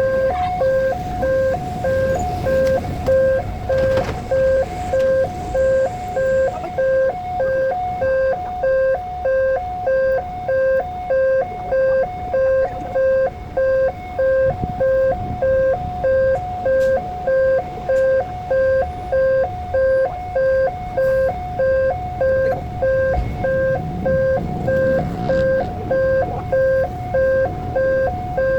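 Electronic railway level-crossing warning alarm sounding a repeating two-tone pattern, pulsing a little over once a second, over a low rumble of traffic.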